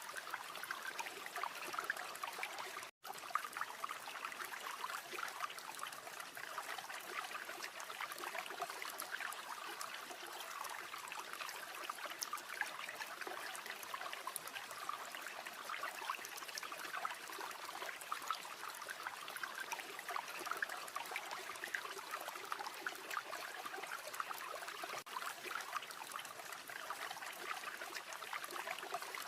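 River water flowing steadily, an even rush with fine trickling. The sound cuts out completely for an instant about three seconds in.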